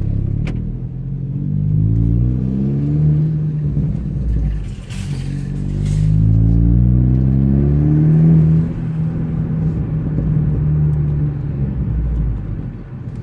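Ford Focus ST's 2.0-litre turbocharged four-cylinder, straight-piped with the resonator and muffler removed, heard from inside the car with the windows down as it accelerates. The engine note rises, breaks off at a gear change about four seconds in, rises again, then holds steady before easing off near the end.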